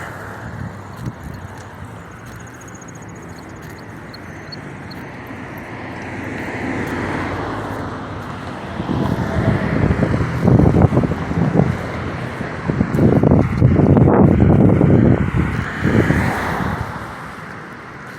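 Road traffic going by outdoors, with a couple of vehicles swelling past. Wind buffets the microphone in loud, ragged rumbles through the middle.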